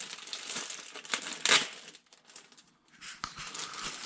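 Light rustling and small clicks as new piston rings are handled, with a louder rustle about a second and a half in and a short quiet spell a little after two seconds.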